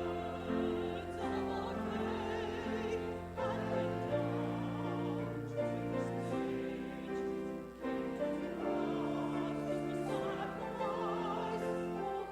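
Classical-style singing with strong vibrato over sustained instrumental accompaniment. The low notes change every few seconds.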